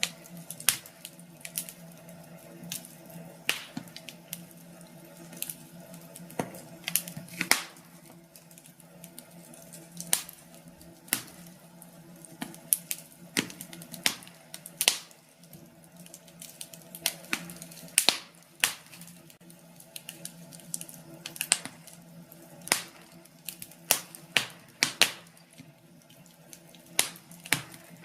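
Wood fire crackling in a fireplace: irregular sharp pops and snaps, some louder than others, over a steady low hum.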